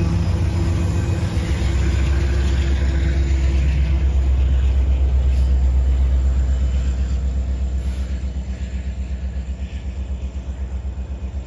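Diesel freight locomotives passing close by: a heavy, steady low rumble of engines and wheels with a fast even pulse. It eases off somewhat in the last few seconds as the units move past.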